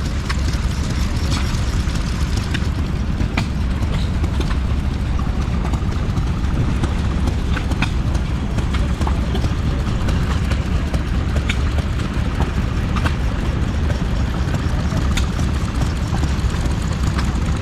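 Old stationary engine running steadily at show display, with a few sharp clicks heard now and then.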